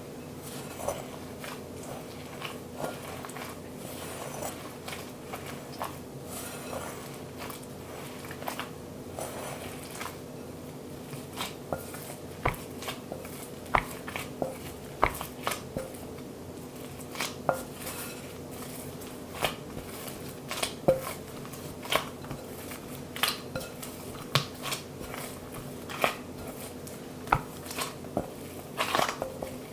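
Kitchen utensils and dishes clinking and tapping, sparse at first and more frequent after about ten seconds, over a steady low hum.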